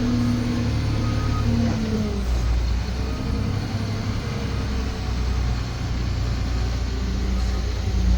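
Cat 725C articulated haul truck's diesel engine running steadily under load as the truck reverses, heard from inside the cab.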